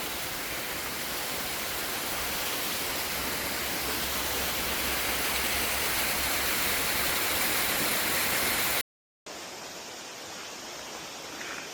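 Steady rushing of a waterfall, cutting off abruptly about nine seconds in; after a moment of silence a softer, steady hiss follows.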